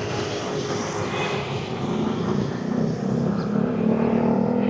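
Street traffic with a vehicle engine running close by, its hum growing louder over the second half.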